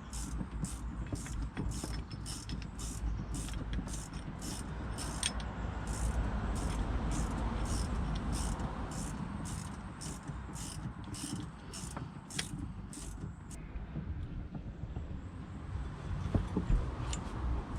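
Brake caliper rewind tool with a Mini adapter being wound to push the rear caliper piston back, giving an even run of mechanical clicks about two or three a second that stops about 13 seconds in, followed by a few louder knocks near the end.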